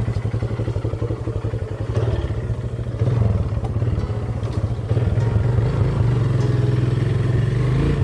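Small motorcycle engine running under way, its beat pulsing evenly at first, then rising in pitch as it picks up speed about two and three seconds in, and running louder and steadier from about halfway.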